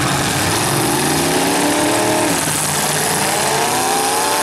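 Demolition derby car engines revving hard, the pitch climbing and dropping back twice, over a dense steady noise of the other running cars.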